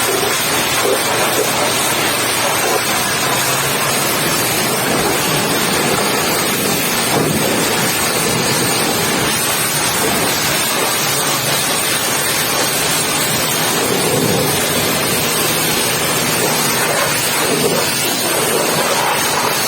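Pressure washer spraying a steady, loud jet of water onto a truck's bodywork.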